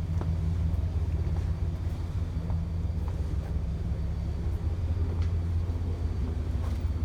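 Steady low rumble of a coastal cruise ship's engines, heard from the outer deck while the ship is under way.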